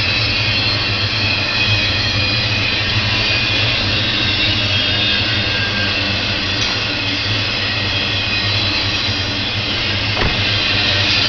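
Empty intermodal freight cars rolling past at speed: a steady rumble of steel wheels on the rails with a high hiss over it. One sharp clack comes about ten seconds in.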